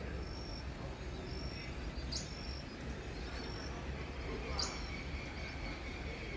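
Masked water-tyrant calling: two sharp, short call notes, about two seconds apart, with brief thin high notes about once a second. A steady low rumble runs underneath.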